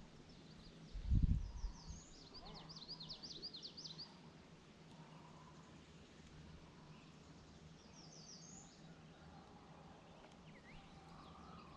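A songbird singing quick runs of high chirping notes, in two bursts, over faint outdoor background; a short low thump or rumble about a second in is the loudest sound.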